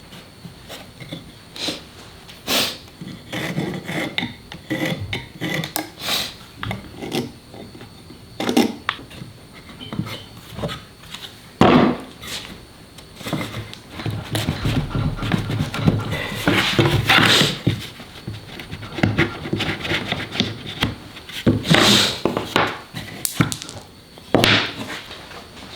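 Irregular knocks, clatters and scraping, as of wood pieces and tools being handled and moved on a workbench.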